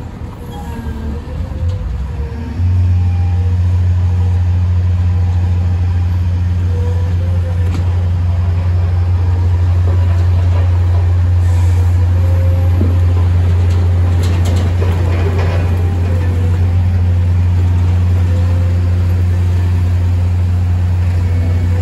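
Caterpillar 120M motor grader's diesel engine running, a loud steady low drone that comes in abruptly about two and a half seconds in and holds.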